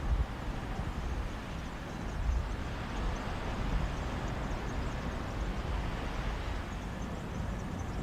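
Mediterranean sea waves washing on a beach in a sea breeze: a steady rushing noise with a low, uneven rumble.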